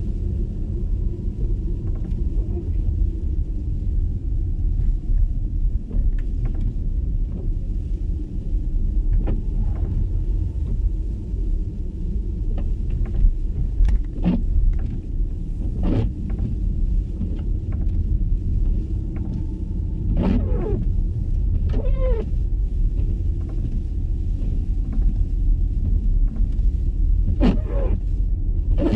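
Electric car driving on a snowy road: steady low tyre and road rumble, with several short squeaks at irregular moments.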